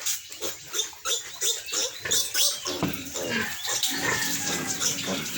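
Young piglets squealing: a rapid run of short squeals, then longer drawn-out squeals about halfway through.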